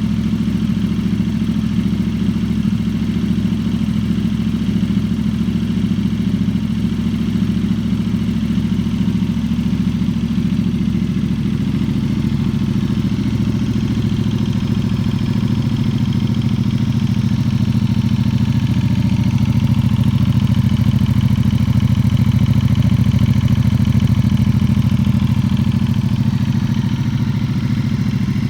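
Ducati XDiavel's 1262 cc V-twin idling steadily through a full Termignoni exhaust with the baffles removed, a deep, even exhaust note; it runs a little louder for several seconds past the middle.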